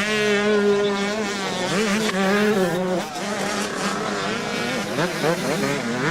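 Several motocross motorcycle engines revving as the bikes race, overlapping, with their pitch rising and falling.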